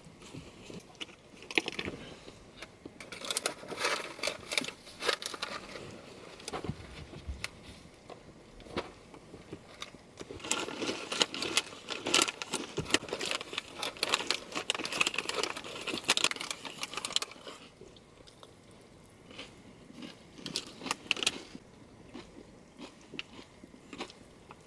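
Irregular close-up crunching and rustling with many sharp clicks, coming in spells and heaviest through the middle stretch.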